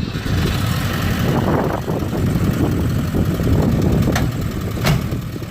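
ZAZ-968M Zaporozhets's air-cooled rear V4 engine running steadily, with two sharp clicks about four and five seconds in.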